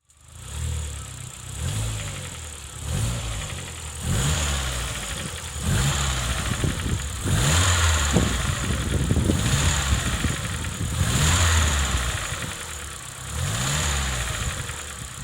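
Vauxhall Corsa VXR's turbocharged four-cylinder engine revved up and down again and again, about eight times. The engine has a knock and smokes, later traced to all four connecting rods being warped.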